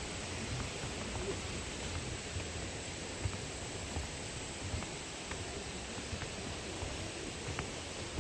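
Steady rush of flowing water in a mountain valley stream, an even hiss with a few faint ticks.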